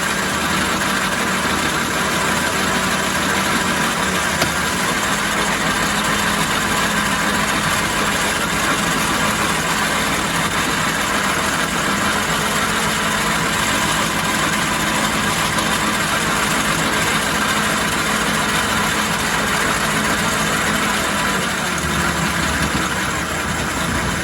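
Logan 210 metal lathe running steadily on its variable-frequency-driven three-phase motor and flat-belt drive, taking a cut on a chuck backing plate, with a steady hum and a whine.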